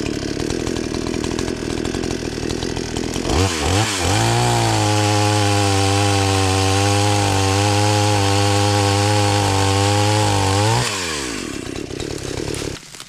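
Chainsaw cutting up a log, its engine pulled down and labouring in the cut for the first few seconds. It then revs up and runs at a high steady speed, winds down about eleven seconds in, and stops just before the end.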